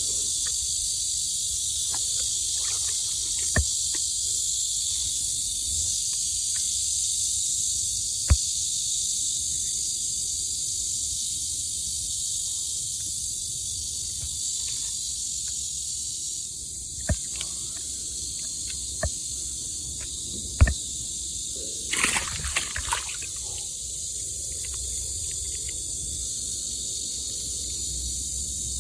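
A steady high-pitched hiss of outdoor ambience with scattered sharp clicks and a short cluster of louder noises about 22 seconds in.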